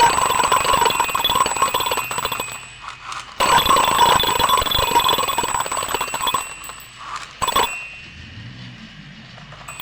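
Small electric motor and plastic gears of a toy tractor whirring with a fast rattle, in two runs of about three seconds and a brief one near the end.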